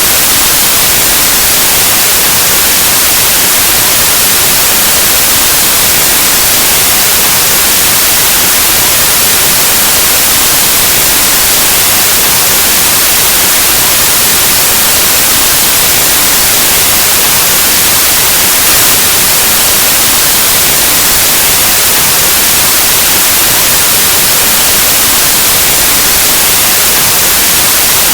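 Loud, steady white noise: an even static hiss across the whole range, like an untuned analog TV or radio, with no change throughout.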